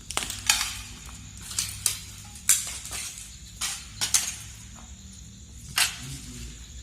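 Footsteps crunching and clinking over broken debris, about eight irregular sharp hits spread across a few seconds.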